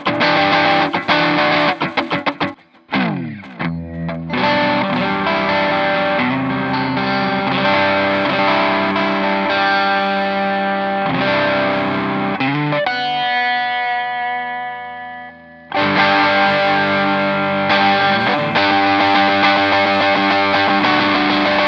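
Clifton Stratocaster-style electric guitar with alnico pickups, played through distortion and effects. Fast picked notes lead into a falling pitch dive about three seconds in, then sustained chords. One chord is left ringing and fading before the playing picks up again near the end.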